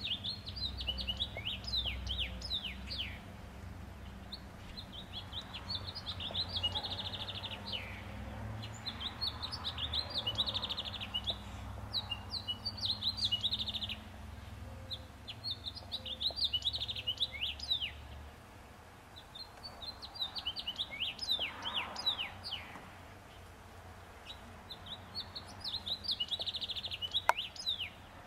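A songbird sings the same short phrase over and over, about six times, roughly every four to five seconds. Each phrase is a quick run of high notes that sweep downward.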